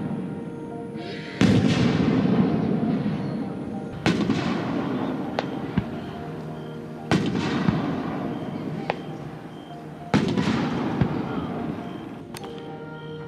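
Fireworks display: four big aerial shells burst about every three seconds, each a sudden boom trailing off in a long rumbling echo, with a few small sharp cracks in between.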